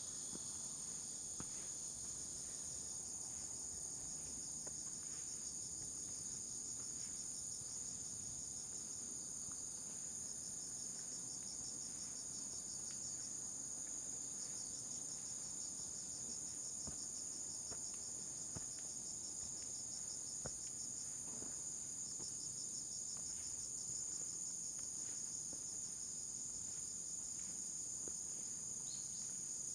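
A steady, high-pitched chorus of insects. A second insect's fast pulsing trill comes and goes beneath it several times, with faint footsteps on the trail.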